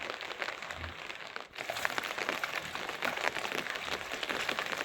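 Dense, irregular patter of rain falling in many small ticks on a nearby surface, with a brief lull about a second and a half in.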